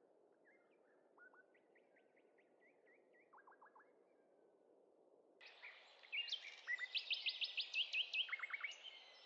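Birdsong from small birds chirping and trilling: faint at first, then louder from about five and a half seconds in, with quick runs of rapidly repeated notes.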